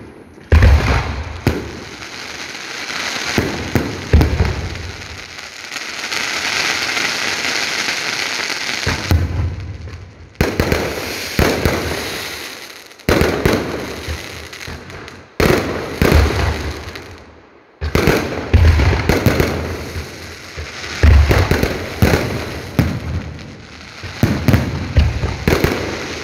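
Aerial firework shells bursting one after another, deep booms in quick succession. A continuous rushing hiss runs from about two seconds in to about nine. The sound cuts out briefly a few times.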